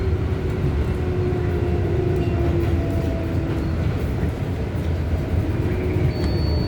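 Interior rumble of a New York City R188 subway car running on the track, with faint whining tones that slide slowly down in pitch as the train slows, and a thin high tone coming in near the end.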